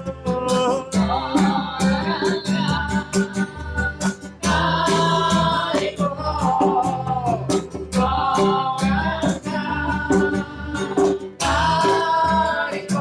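Kirtan: several voices singing a devotional mantra over a strummed acoustic guitar, with a steady rhythm throughout.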